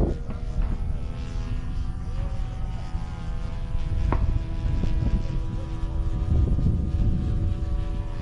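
Radio-controlled model airplane's engine and propeller droning at a steady pitch in flight, with wind rumbling on the microphone and a single short click about four seconds in.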